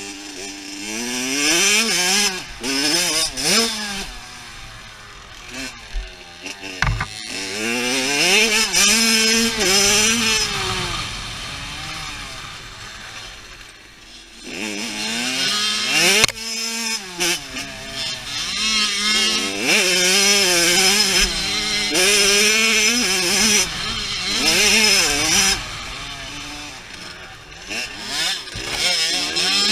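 Dirt bike engine revving hard through the gears, pitch climbing and dropping again and again. It fades away partway through and then comes back up loud.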